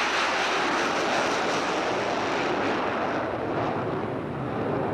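Military jet aircraft flying past, a loud rushing engine noise whose high end thins out slightly after about three seconds.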